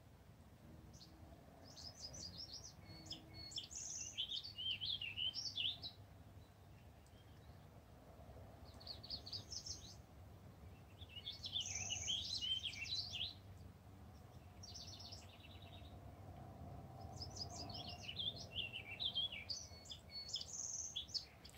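Faint songbird singing: several quick, high, warbling phrases of chirps with pauses between them.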